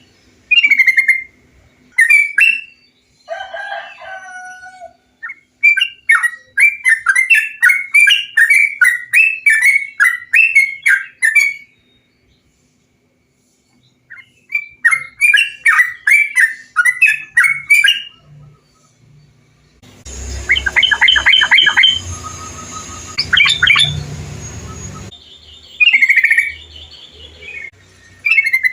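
Bulbuls (trucukan) singing: bursts of short, bubbly whistled phrases repeated in quick runs, with pauses between. About two-thirds through, a hissy background comes in for a few seconds under further calls.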